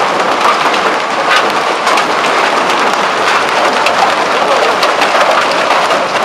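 Hailstones falling in a storm: a dense, steady clatter of many sharp hits over the hiss of heavy rain.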